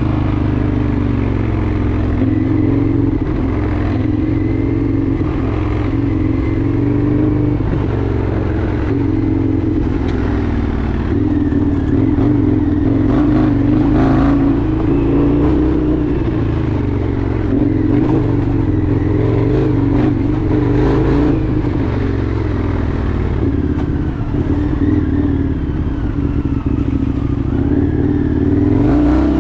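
Indian FTR 1200's V-twin engine running steadily while riding, its pitch rising and falling slightly with the throttle, with a few brief clattering knocks along the way.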